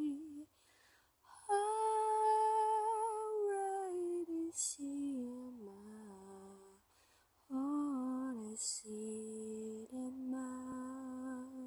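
A woman humming a slow, lullaby-like melody without words, in four phrases of long held notes with a slight vibrato.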